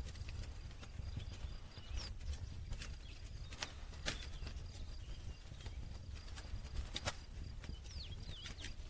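Campfire crackling: irregular sharp pops and snaps of burning wood over a low rumble.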